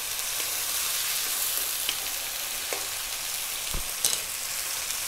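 Chopped fresh tomatoes and sliced onion sizzling steadily in hot oil in a wok as they are stirred with a wooden spatula, with a few light clicks. A knock about four seconds in as the spatula is laid down.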